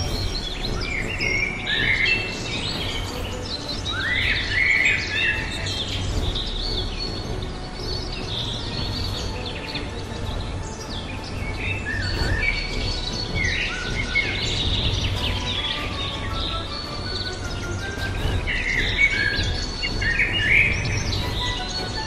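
Wild birds chirping and calling: many short, sliding calls scattered throughout, with a few louder clusters about four seconds in and near the end. Under them runs a steady low rumble.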